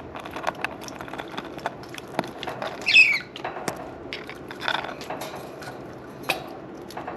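Budgerigars chirping and chattering, with scattered short clicks and a steady background hiss. One loud warbling chirp comes about three seconds in, and shorter chirps follow later.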